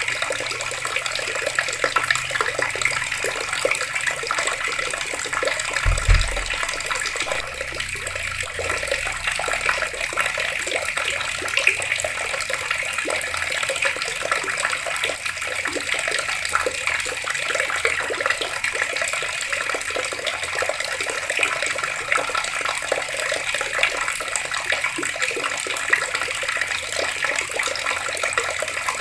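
Water running steadily from taps and splashing, with a brief low thump about six seconds in.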